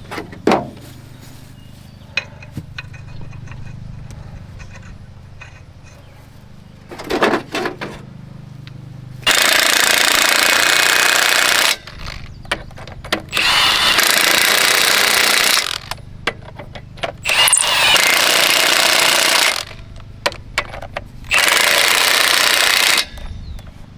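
A hammering power tool run in four bursts of about two seconds each, over a low steady hum in the first part.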